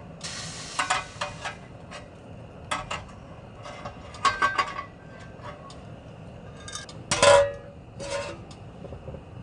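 Camp dishes and utensils being handled, clinking and clattering in a series of short knocks, with a louder clatter about seven seconds in.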